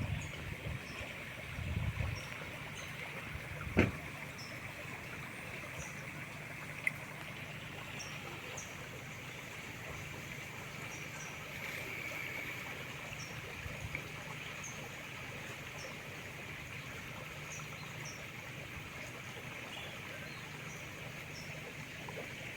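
River water trickling and flowing steadily, with small high chirps repeating irregularly over it and one sharp knock about four seconds in.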